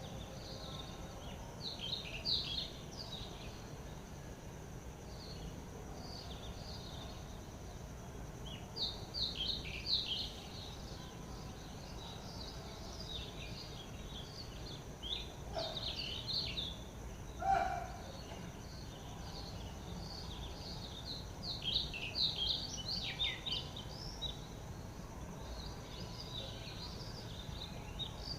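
Several wild birds chirping and twittering in quick, irregular clusters, with a couple of short lower calls around the middle, over a steady background hiss.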